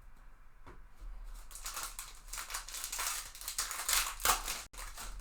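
Trading-card pack wrapper being torn open and crinkled by hand: a run of rustling and tearing that grows louder toward the end, then breaks off suddenly for an instant.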